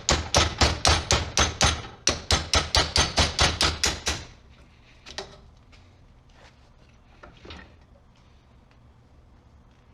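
Rapid hammer blows, about four a second, driving the old sleeve out of a slit rubber engine mount bushing. They stop about four seconds in, and a few light knocks follow.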